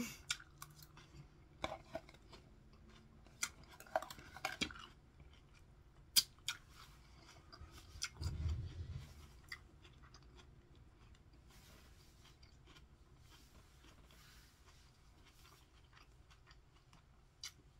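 Close-miked chewing of a mouthful of chicken salad with iceberg lettuce and bacon bits: crisp crunching clicks over the first seven seconds or so, a low thump about eight seconds in, then the chewing fades out.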